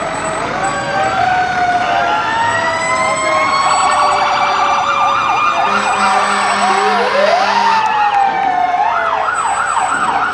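Several fire truck sirens sounding at once, their slow wails rising and falling and overlapping, with fast warbling yelps in the middle and again near the end. A low horn sounds about six seconds in for around two seconds.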